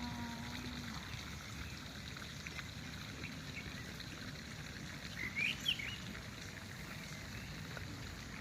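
Steady outdoor hiss with a single short bird chirp, a few quick rising notes, about five and a half seconds in.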